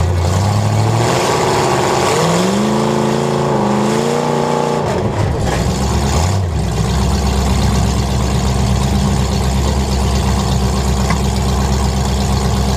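Demolition derby cars' engines running, with one engine revving up about two seconds in, holding high, and dropping back about five seconds in.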